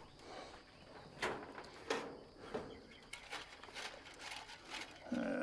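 Scattered light knocks and rustles from handling a rabbit hutch and hay while feeding rabbits. Near the end a rooster starts to crow.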